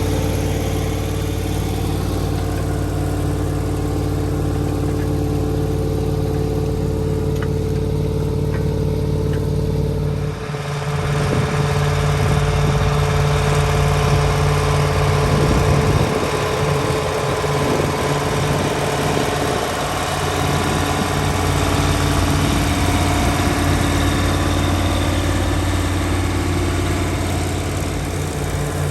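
Massey Ferguson 4840's V8 diesel engine running steadily under load while pulling a cultivator through stubble. The sound changes abruptly about ten seconds in and becomes noisier.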